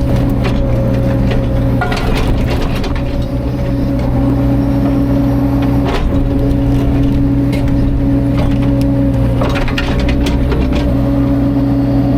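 CAT 305.5 mini excavator's diesel engine running at a steady pitch, with scattered short knocks and clicks about two seconds in, around the middle, and near the end.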